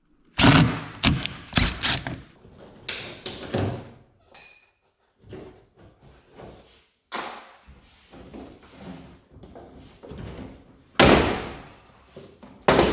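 Knocks, thuds and clatter from dismantling a car's rear bumper by hand, with a brief metallic ring about four seconds in and two loud thumps near the end.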